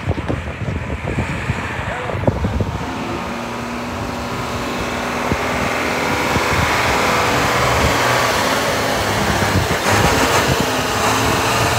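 An engine running steadily with a low hum, getting somewhat louder about five seconds in.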